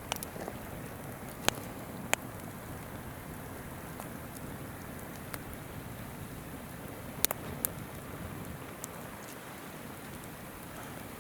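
Campfire crackling, with a handful of sharp pops from the burning wood, over the steady rush of a flowing river.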